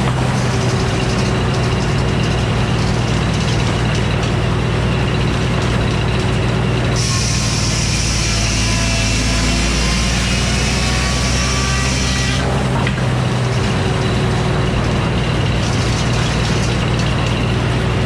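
An old Frick sawmill running: a steady low engine drone under the whir of the circular saw. The hiss grows brighter for about five seconds in the middle, then eases again.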